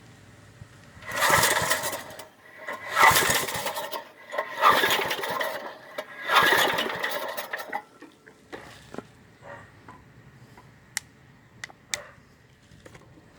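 1995 Briggs & Stratton 5-horsepower engine being pull-started cold after about seven years unused: four pulls on the recoil starter, each cranking the engine over for about a second without it catching, followed by a few light clicks.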